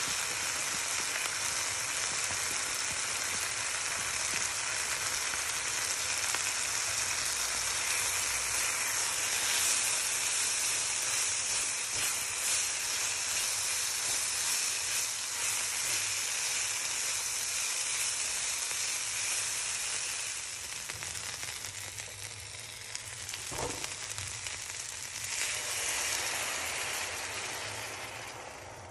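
Diced chicken and vegetables sizzling in a frying pan while being stirred with a silicone spatula. The sizzle eases in the last third, once liquid is in the pan, with one sharp knock partway through that stretch.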